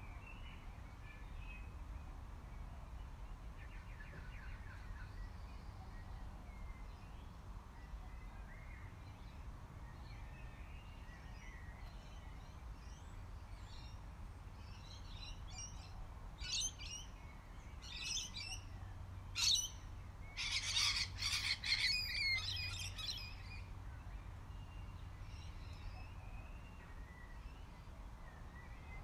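Wild birds chirping and calling, mostly faint and scattered, with a run of louder calls about two-thirds of the way through, over a low steady rumble.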